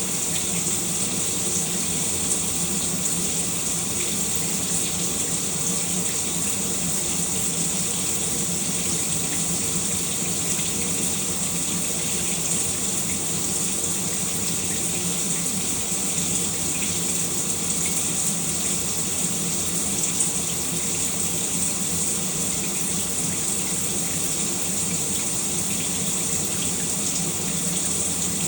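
Shower running steadily, water spraying in an even hiss.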